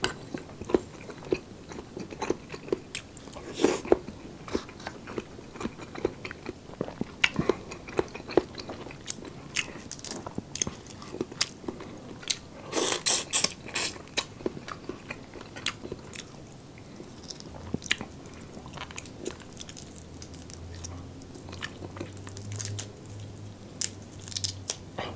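Close-up eating sounds: chewing with many sharp wet mouth clicks, and the crackle of boiled shrimp shells being pulled apart by hand, loudest about halfway through.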